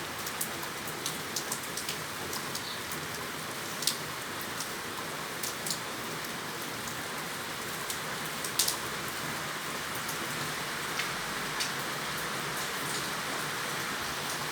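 Steady rain falling, an even hiss with scattered sharper drip ticks, one louder tick about four seconds in and another past the middle.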